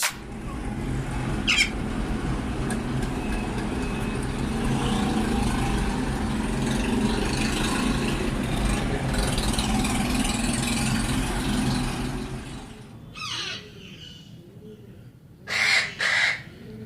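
Parrots calling over a steady wash of noise for about twelve seconds. The noise then drops away, leaving separate harsh squawks, with two loud ones near the end.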